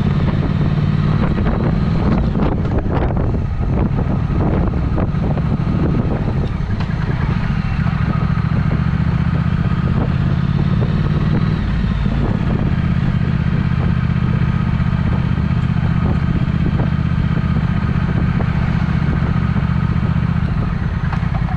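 Triumph Speed Twin's parallel-twin engine running through an aftermarket Vance & Hines exhaust, a deep, steady note with no revving.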